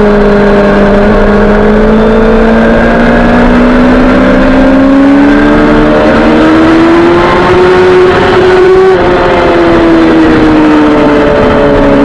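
Suzuki GSX-R sportbike engine running under throttle, its pitch climbing slowly for about nine seconds, then dropping sharply and easing down before climbing again near the end.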